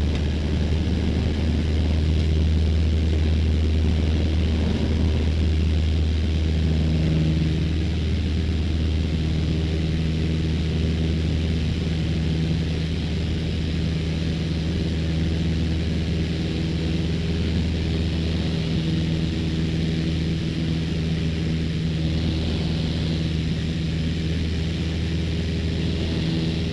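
Cessna 152's four-cylinder engine and propeller running at full takeoff power during the takeoff roll and climb, heard from on board as a steady low drone. A slightly higher tone joins in about seven seconds in.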